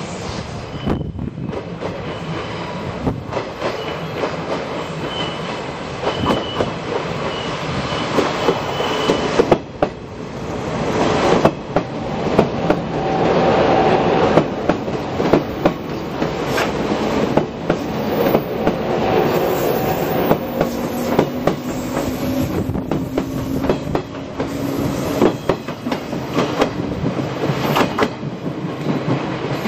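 Japanese National Railways 381 series tilting limited-express electric train approaching and passing close by: its wheels clatter over rail joints above a steady rumble, loudest about halfway through as the cars go past. A thin high squeal sounds a few seconds in.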